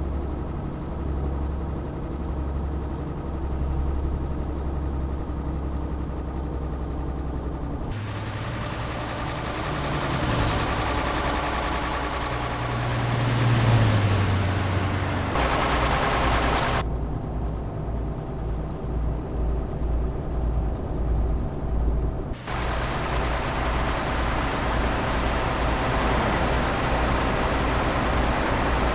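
Tanker truck's diesel engine running on the road. About halfway through, its pitch rises and falls as it revs, then a hiss of about a second and a half follows before the steady running resumes.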